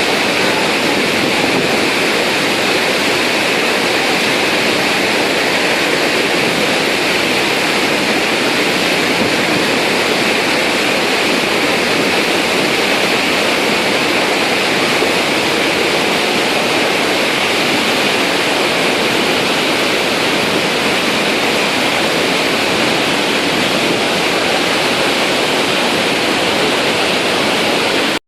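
Iguazu Falls: a large waterfall's water crashing down, a loud, steady rushing noise without a break.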